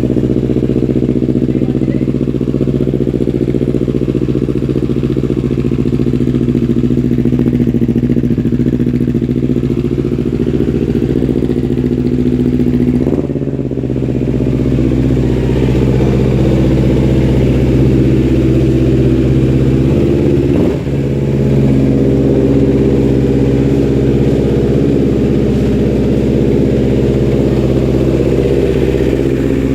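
Kawasaki Ninja 250 FI parallel-twin engine idling steadily through an aftermarket R9 Assen exhaust. The sound dips briefly about 13 seconds in and again near 21 seconds.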